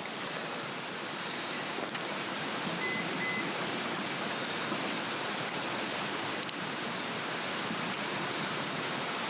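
Swedish torch log fire burning strongly in the wind: a steady rushing hiss with a few faint crackles.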